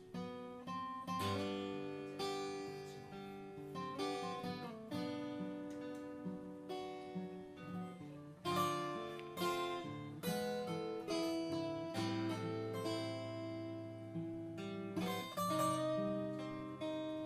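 Acoustic guitar playing an instrumental break between verses of a folk song, with chords and picked notes ringing out.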